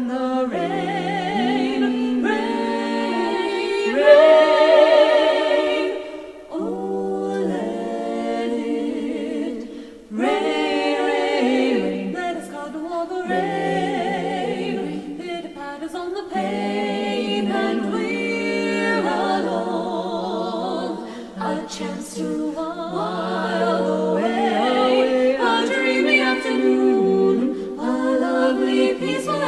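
Women's barbershop quartet singing a cappella in four-part close harmony, with sustained chords and vibrato. The phrases are broken by short breaths about six and ten seconds in.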